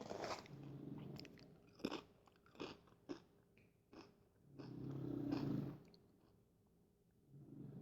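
Fritos corn chips crunched and chewed close up, with several sharp crunches in the middle. A dog snores in long, low breaths: one at the start, the loudest about five seconds in, and another beginning near the end.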